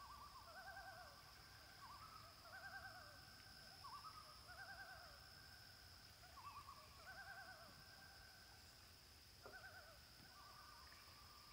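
Faint, wavering bird calls, mostly in pairs about every two seconds, each call quavering up and down.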